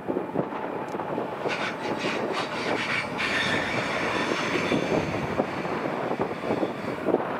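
High-speed train running past on a curve, with a steady rumble and clatter of wheels on the rails. For a few seconds in the middle, a high squeal from the wheels rides over it.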